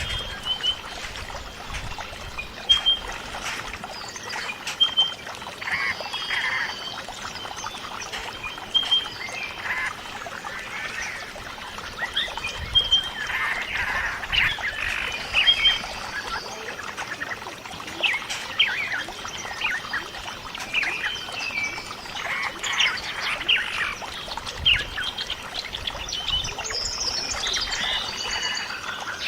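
Birds giving repeated short high chirps over trickling, pouring water.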